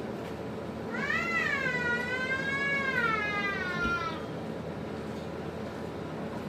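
A cat giving one long, drawn-out meow of about three seconds that rises, wavers and falls away, over a steady background hiss.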